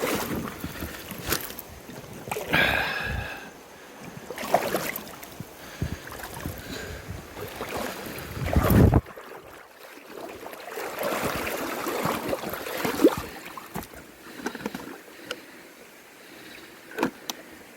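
Water splashing and sloshing around a small boat on a river, with irregular knocks and bumps. There is a brief squeak about two and a half seconds in and a heavy splashing thump near the middle.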